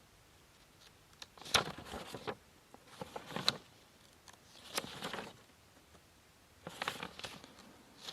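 Several short bursts of crisp rustling with sharp clicks, about four in all, a second or two apart.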